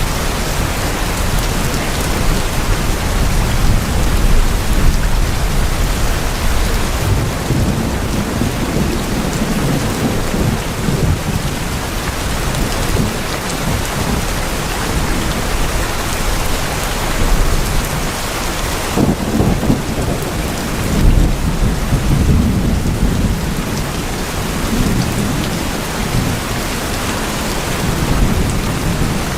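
Steady heavy rain falling on tin roofs, a dense even patter, with deep low rumbles swelling up several times, about a quarter and two-thirds of the way in and again near the end.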